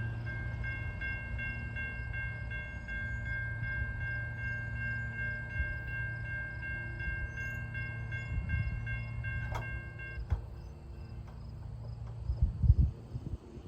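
A Norfolk Southern autorack train's cars roll past the grade crossing with a steady low rumble while the crossing bell rings in even dings. The bell stops about ten seconds in, and a loud thump comes near the end.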